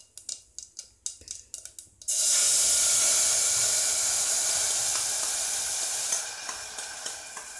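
Cumin seeds crackling in hot oil in an aluminium pressure cooker. About two seconds in there is a sudden loud sizzle as ground onion-tomato paste is poured into the hot oil, dying down over the last couple of seconds.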